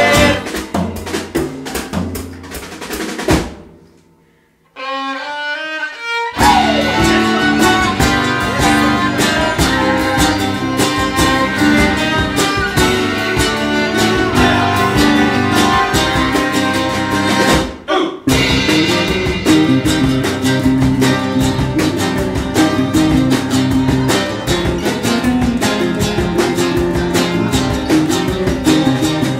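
Acoustic folk-rock band playing with guitar, violin and drums. About 3.5 seconds in the band stops, a single instrument plays a short melody alone, and about 6 seconds in the full band comes back in; it breaks off again for a moment near 18 seconds.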